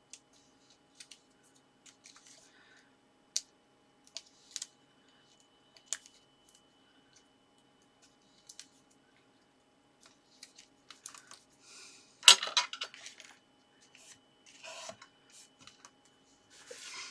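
Hands peeling red liner backing off double-sided tape and handling cardstock: scattered small clicks and taps with brief paper rustles, and one sharper knock about twelve seconds in.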